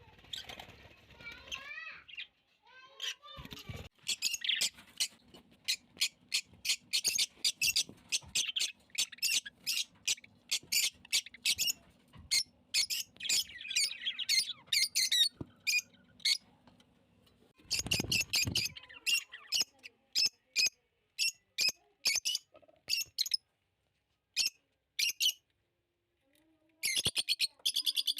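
Small cage birds chirping: runs of short, sharp, high chirps with pauses between them, and a fast run of repeated chirps near the end. A brief low rumble breaks in about two-thirds through.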